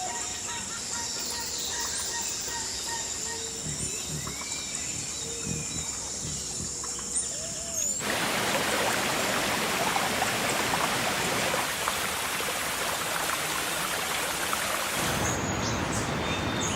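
Birds chirping over a quiet outdoor background. About halfway through, it switches abruptly to a steady, loud hiss, like rain or rushing water.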